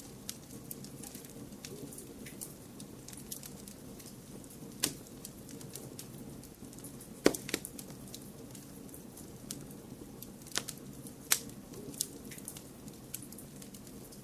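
Wood fire crackling: scattered small ticks and a handful of louder sharp pops, over a steady low rushing bed.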